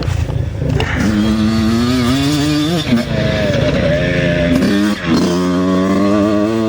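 Racing motorcycle engines at high revs, rising in pitch as they accelerate and dropping at gear changes about three and five seconds in.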